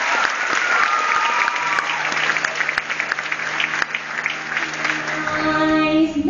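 Audience applauding, with a few whoops. A held low note comes in under the clapping, and music builds up near the end.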